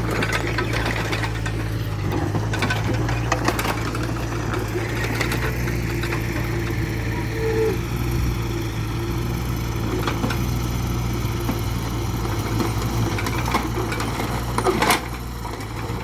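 Diesel engine running steadily at a constant speed, with a fast, even mechanical clatter over a low hum.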